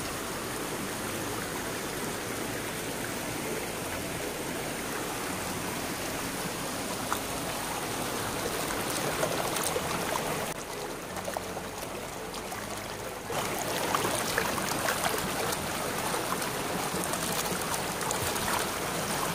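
Stream water rushing steadily down a natural rock water slide. It goes quieter for a few seconds just past the middle, then comes back.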